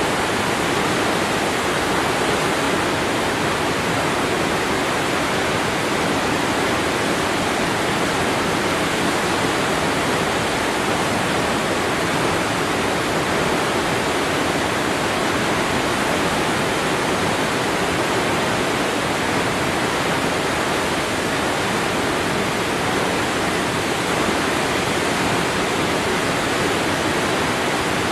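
Waterfall: falling water crashing steadily in an even, unbroken rush.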